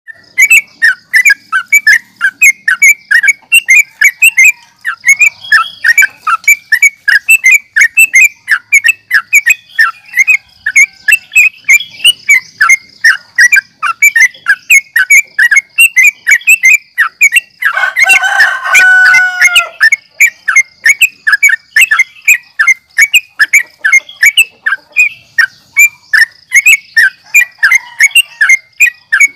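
Yellow-vented bulbul (trucukan) singing an excited fighting-style song: a fast, unbroken chatter of sharp notes at about four a second. About eighteen seconds in comes a louder burst of lower, fuller notes. A steady thin high tone runs underneath.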